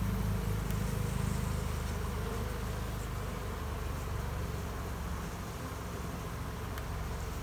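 Honey bees buzzing steadily around an opened hive.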